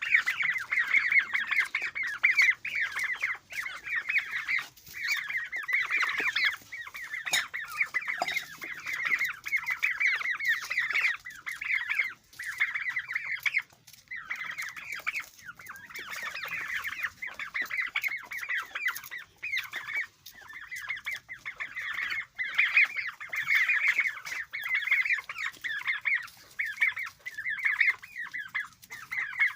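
Turkey poults peeping: a steady stream of high, overlapping chirps, with a few brief pauses.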